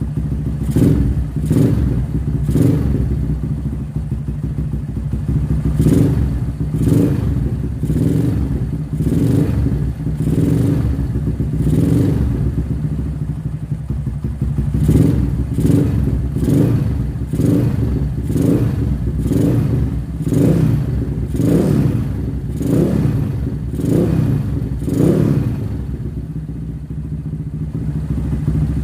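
Motorcycle engine running through a JMF aftermarket exhaust inside a room, idling with a string of short throttle blips about one a second, settling back to a steady idle near the end.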